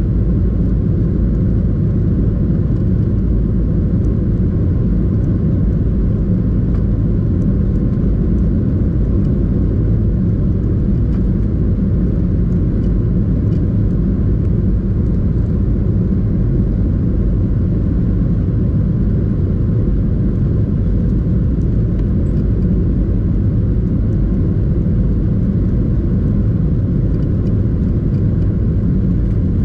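Steady low rumble inside the passenger cabin of a Boeing 737-800 airliner, unchanging throughout.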